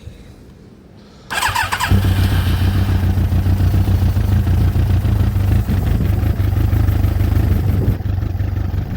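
Yamaha YZF1000R Thunderace's inline-four engine on a little choke, cranked on the electric starter about a second in. It catches within half a second and settles into a steady, even run.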